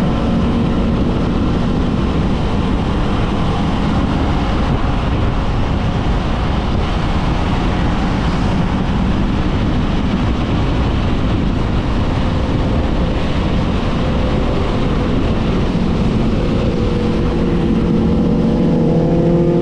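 Kawasaki Vulcan S 650 parallel-twin engine running on the move, under steady wind noise on the microphone; the engine note comes through more clearly near the end.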